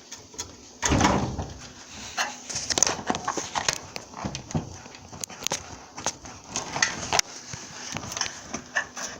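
Hands working on an LG dryer's removed front panel: a series of knocks, clicks and light rattles as the panel's wire connectors are unplugged, with a louder thump about a second in.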